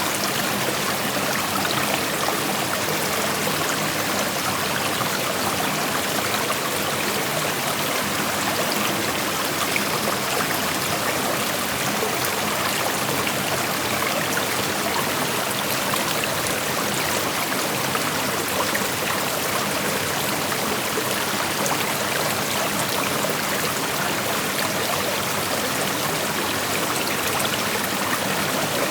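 Shallow creek flowing over rocks: a steady rush of water with fine trickling and babbling.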